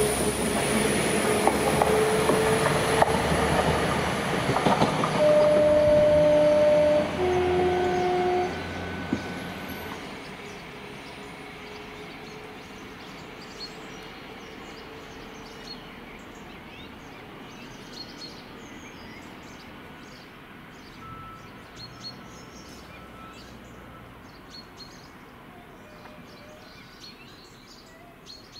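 Northern Class 195 diesel multiple unit pulling away, its engines and wheels loud at first. About five seconds in its horn sounds two notes: a higher note held for about a second and a half, then a lower one for about a second. The train then fades to a faint rumble as it draws away.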